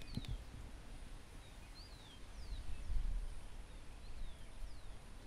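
Birds calling: short, high chirps that slide downward, repeated about once a second, over a low uneven rumble that swells about three seconds in.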